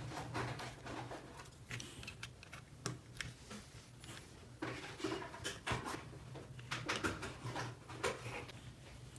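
Small plastic toy pieces being handled, giving irregular light clicks and taps over a steady low hum.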